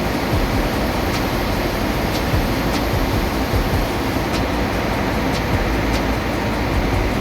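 Loud, steady engine-room noise of a ship's running machinery, with sharp ticks roughly once a second.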